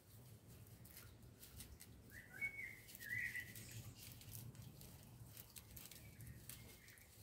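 Faint bird chirps, a couple of short ones about two to three seconds in and a fainter one near the end, over soft clicks and rustles from hands working wet modelling concrete on aluminium foil.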